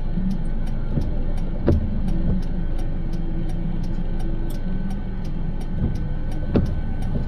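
Steady low road rumble inside a moving car, with music playing under it that carries a regular high tick about four times a second. Two short thumps, one about two seconds in and one near the end, sound like the car going over bumps.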